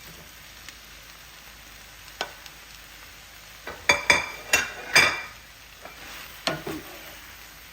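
Chicken strips and vegetables sizzling steadily in a frying pan, with a utensil scraping and knocking against the pan several times as they are added and stirred, most of the knocks in a cluster around the middle.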